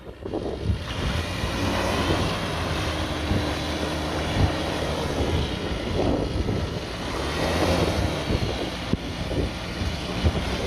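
Homemade helicopter's engine and rotor running steadily, a continuous mechanical drone with wind buffeting the microphone.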